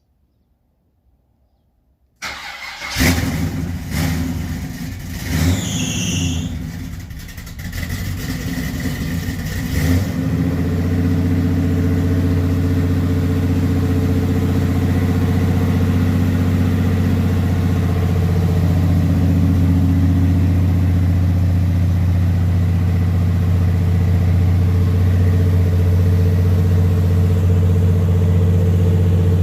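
1978 Chevrolet Malibu's V8 firing up about two seconds in, running unevenly with a few swells in revs, then settling into a steady idle about ten seconds in.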